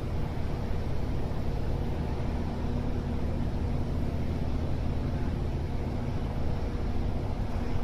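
Vessel's engine running with a steady low rumble and a steady hum over it.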